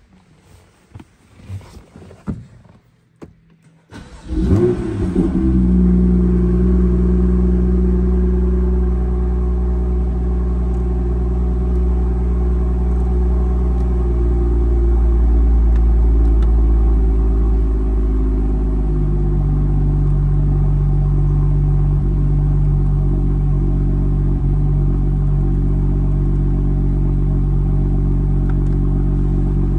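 A few light clicks and knocks from handling in the cabin, then the BMW M2's turbocharged straight-six starts about four seconds in with a brief rev flare and settles into a steady idle. The idle note shifts slightly about two-thirds of the way through. Heard from inside the cabin.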